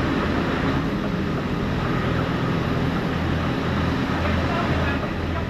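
Truck engine running with a steady low hum that swells and eases every second or so, under road and cab noise.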